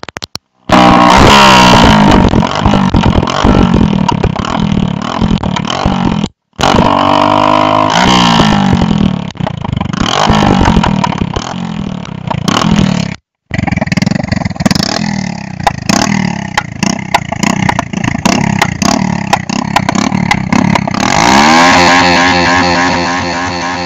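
Motorcycle engines revving hard with rapid popping and crackling from the exhaust, in several short bursts separated by abrupt cuts. Near the end one engine's pitch rises and then holds steady.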